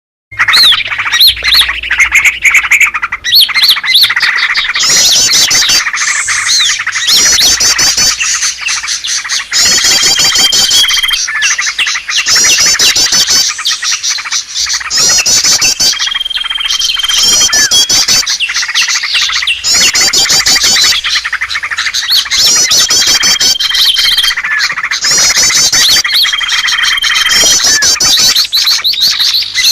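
Bird-lure recording of many small birds chirping and calling together in a dense, busy chorus, with rapid high trills and a short steady whistle that recurs every few seconds.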